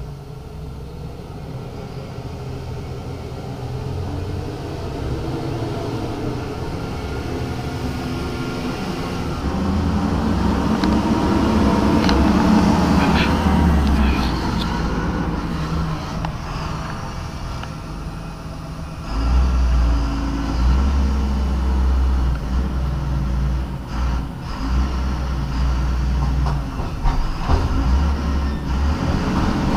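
Heavy diesel engine running, building up over the first dozen seconds, easing off, then picking up sharply about two-thirds of the way through.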